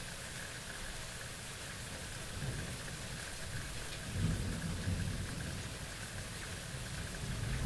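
Steady rain hiss with a low thunder rumble that builds and swells about four seconds in, then grows again near the end.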